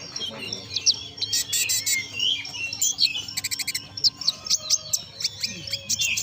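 A konin songbird singing persistently: a busy stream of quick chirps, whistled glides and squeaky notes, with a fast trill of repeated notes about halfway through.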